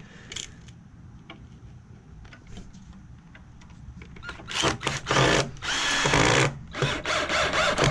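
Power drill running in several short bursts, starting about halfway through, working into a wood 2x4. Light handling clicks come before it.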